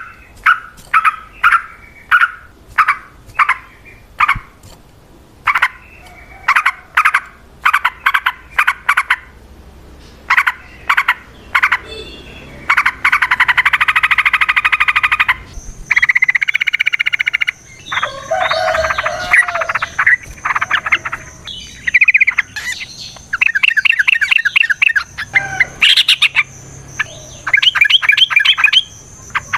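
Yellow-vented bulbul (trucukan) calling loudly: a string of short, evenly repeated notes, roughly two a second, for the first dozen seconds, then long runs of fast, dense chattering and varied phrases, as in a fighting bout. A thin, steady high tone runs under the second half.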